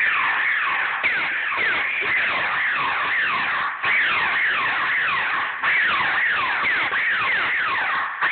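Laser tag guns firing in rapid succession: a steady stream of electronic zaps, each sweeping down in pitch, several a second and overlapping.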